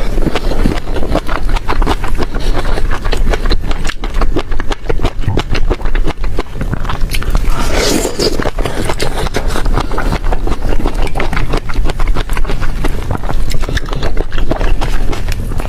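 Close-miked eating sounds: a person chewing and crunching food, a dense run of rapid crackling clicks that goes on throughout.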